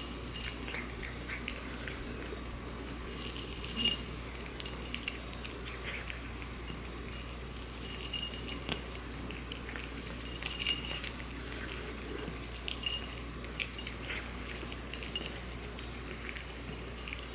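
A Norwegian Forest Cat at its food bowl, with sharp, ringing clinks every few seconds; the loudest comes about four seconds in.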